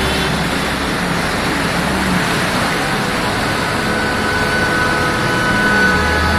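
Vehicle driving through floodwater: steady rushing water and wash noise over a low engine hum. Steady tones, likely music, come in about halfway through.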